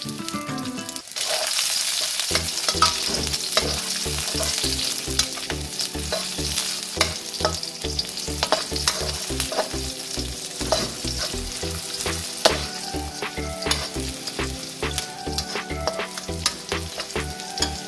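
Sliced red chilies, shallots and garlic sizzling in hot oil in a wok, the sizzle swelling about a second in as the chilies go in. A metal spatula scrapes and clicks against the wok as they are stirred.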